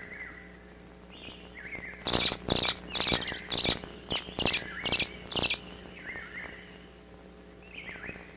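Young eastern phoebes begging for food: soft chirps, then about ten loud, harsh calls in quick succession over some three seconds, then soft chirps again.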